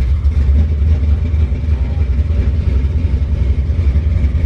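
Drag-built 496 cubic-inch big-block Chevy V8 with a Holley carburettor, running steadily with a deep, low rumble and no revving.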